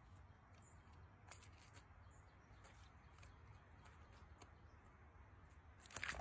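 Near silence with faint scattered taps and a few brief, high chirps, and a louder burst of clicking near the end.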